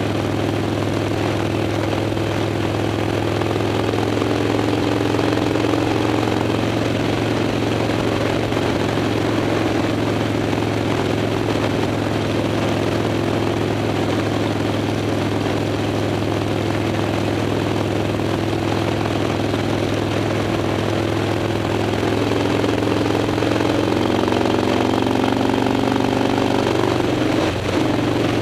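Harley-Davidson Dyna's V-twin engine running steadily at freeway speed under wind and road noise. Near the end the engine note dips briefly.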